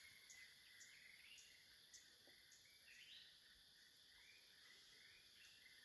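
Near silence outdoors, with faint insects chirping in a steady rhythm of about two chirps a second over a soft higher buzzing.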